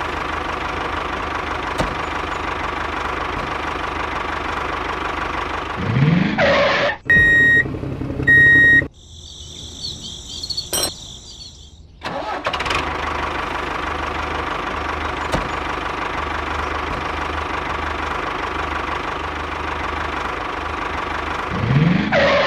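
Small tractor engine running steadily, with a rising rev about six seconds in and again near the end. From about seven to twelve seconds the engine sound drops out: first loud short beeps, then a quieter stretch with a brief high sound.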